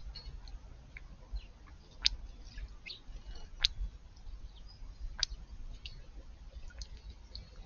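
Garden birds calling: scattered short, high chirps and three louder sharp clicking notes spaced about a second and a half apart, over a low rumble.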